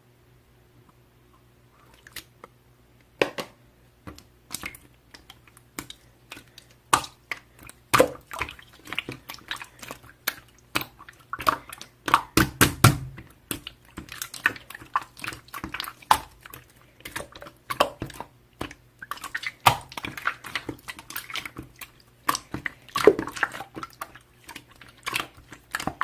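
Slime being worked by hand, squeezed, poked and pressed, giving irregular sticky clicks and crackles that start about two seconds in.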